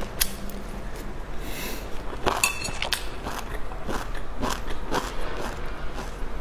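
Close-miked mouth sounds of a person chewing a soft boiled dumpling, with irregular small clicks and smacks. The loudest smack comes about two and a half seconds in.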